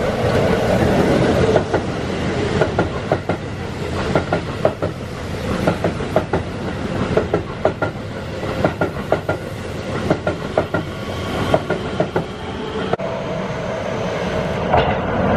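Keihan 3000-series electric train running past a station platform: a steady rumble of running noise with wheels clacking over rail joints in quick runs of clicks. About 13 s in, the sound cuts to another 3000-series train running in.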